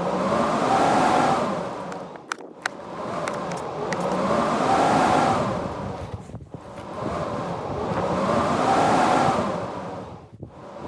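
Blizzard wind howling in gusts, swelling and fading about every four seconds with a rising-and-falling moan. A few sharp clicks come a couple of seconds in.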